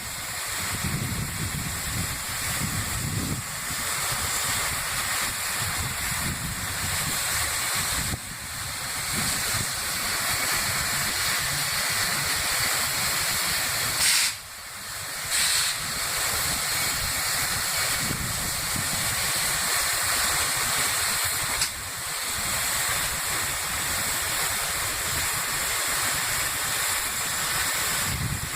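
Steam hissing steadily and loudly from the LNER Peppercorn A1 4-6-2 Pacific locomotive Tornado. There is no exhaust beat, and the hiss drops out briefly about halfway through.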